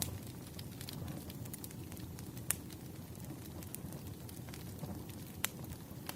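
Campfire burning: a low steady rush with scattered small crackles and two sharper pops, about two and a half seconds in and near the end.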